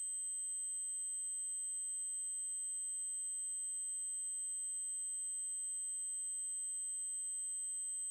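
Steady 8192 Hz triangle-wave test tone: one constant, very high-pitched electronic whine that does not change in pitch or loudness.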